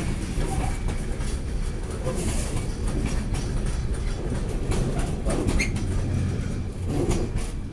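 Open-top freight wagons rolling past very slowly: a steady low rumble of steel wheels on rail, with scattered clacks and knocks as the wheels cross rail joints.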